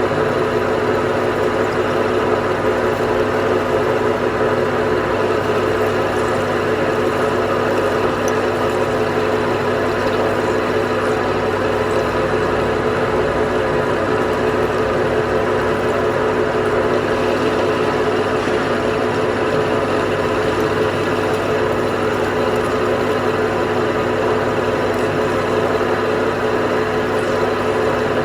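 A machine's motor running steadily with a constant hum.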